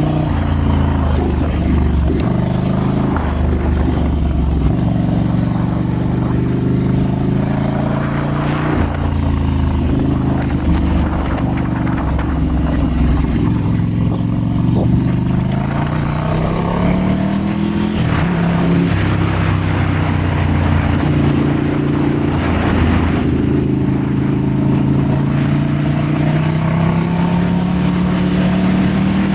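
Ducati Scrambler's air-cooled L-twin engine running under changing throttle on a trail ride, its pitch rising and falling several times, with a longer climb in pitch around the middle and again near the end.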